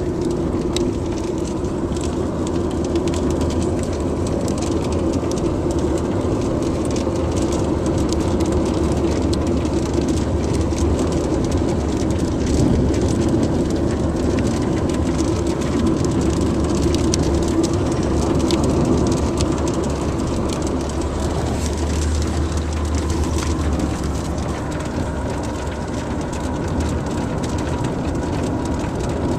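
Car cabin noise while driving, a steady low rumble of engine and tyres, with rain striking the car as many small sharp ticks.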